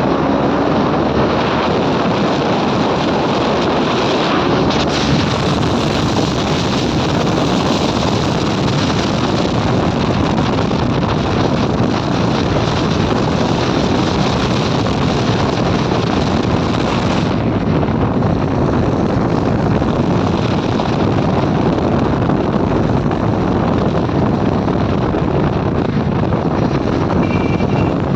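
Steady wind rush on the microphone of a motorcycle rider at speed, with road and engine noise mixed underneath.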